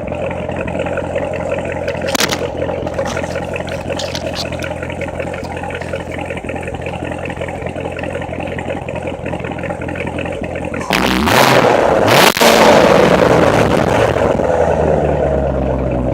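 A 2015 Corvette Z06's supercharged 6.2-litre V8 idling steadily. About eleven seconds in it is revved hard, and the revs then fall back toward idle near the end.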